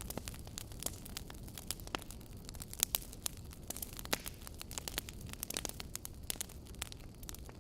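Wood fire crackling in a fireplace: irregular sharp pops and snaps of varying loudness over a steady low rumble of the flames.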